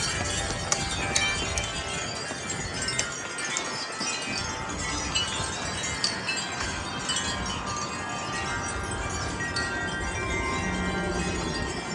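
Several wind chimes ringing continuously in gusty wind, many overlapping tones struck again and again, over a low rumble of wind.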